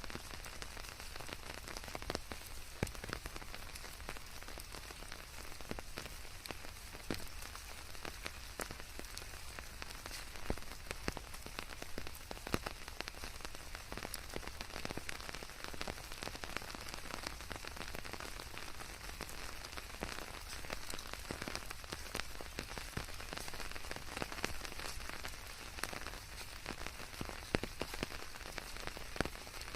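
Steady rain with many individual drops pattering on leaves, over an even hiss.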